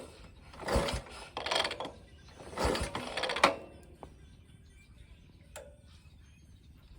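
Kick-starter on a 1941 Indian Junior Scout being kicked through to prime the cold flathead V-twin, the engine turning over without firing. There are a few short clattering mechanical strokes in the first half, the last ending in a sharp knock, then quiet.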